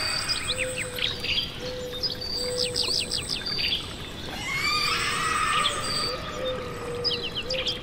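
Nature soundscape of several birds chirping with quick, sweeping notes, while a high insect trill comes and goes in short spells, over a steady rush of flowing water.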